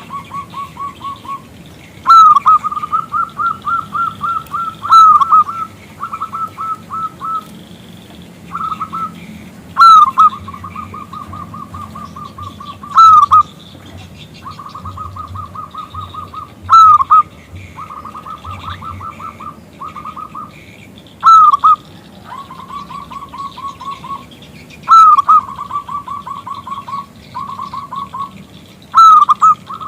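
Zebra dove (perkutut) calling in repeated phrases. Each phrase is a loud sliding note followed by a rapid run of short, softer notes, coming about every three to four seconds.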